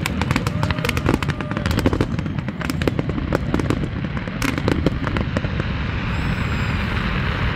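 Aerial fireworks going off in a dense run of rapid crackling and popping, with a few sharper bangs, thinning out after about five seconds.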